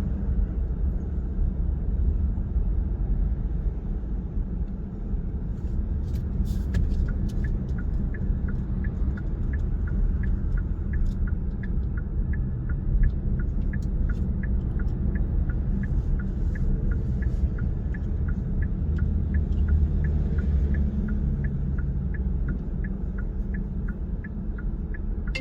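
Steady low rumble of a car's engine and tyres heard from inside the cabin while driving. From about six seconds in, a regular ticking sounds about twice a second and stops shortly before the end.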